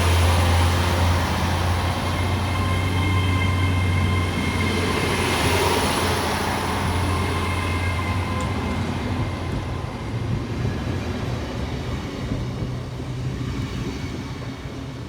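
GWR Class 802 bi-mode train running through the station on its diesel engines, with a deep engine hum and a steady high whine from its traction equipment. It fades slowly as the train draws away.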